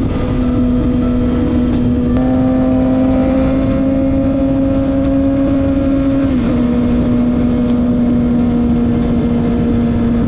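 Kawasaki ZX-6R sport bike's inline-four engine running at steady high revs while riding, over a constant rush of wind. The engine note creeps up slowly, then steps down about six seconds in.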